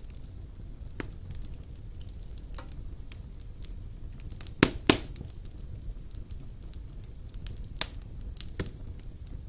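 Wood fire burning in a fireplace: a steady low rumble of flames with scattered sharp crackles and pops, the loudest a double pop a little before the five-second mark.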